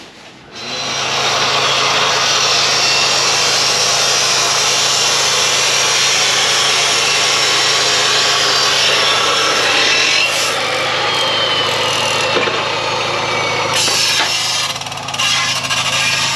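Power tool cutting steel exhaust tubing, used to take out a Silverado 1500's muffler for a straight pipe: a loud, steady rasping that starts about half a second in and runs for about fifteen seconds, with a faint falling whine partway through.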